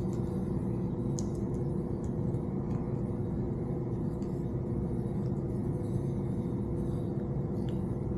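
Steady low rumble with a constant hum, with a few faint light clicks over it.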